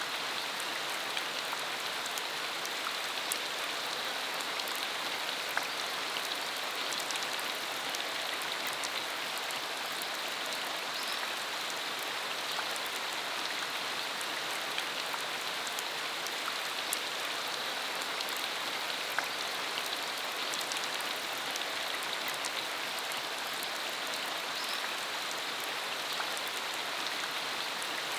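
Steady rain falling, a continuous even hiss with scattered individual drops ticking.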